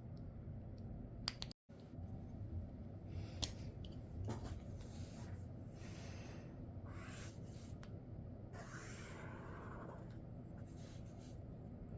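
Sharpie Creative Marker tips drawing strokes, with a hissing scratch on each stroke lasting about a second, interspersed with a few sharp clicks. The sound cuts out for an instant near the start.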